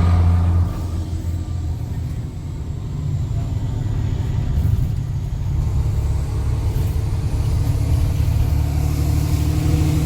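Straight-piped Cummins C8.3 inline-six turbo diesel of a school bus running with a deep, throaty exhaust note. It drops off about a second in, then builds back up over the next few seconds and holds steady under load.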